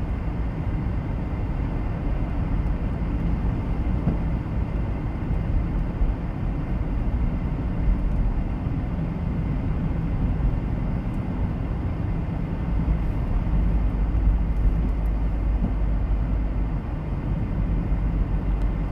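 Steady rumble of a car's engine and tyres heard from inside the cabin while driving.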